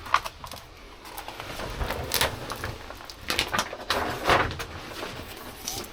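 Utility knife cutting through sound-deadening insulation mat, with a few short rasping strokes and handling of the sheet; the loudest strokes come about two, three and a half and four seconds in.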